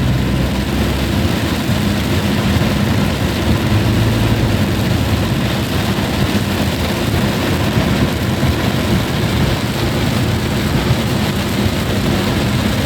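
Car driving along a wet, water-covered highway, heard from inside the car: a steady rush of tyre and road noise with a low engine hum.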